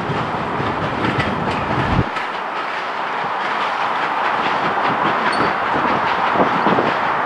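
Heritage railway train running along the track, its wheels clicking over the rail joints. A low rumble cuts off suddenly about two seconds in.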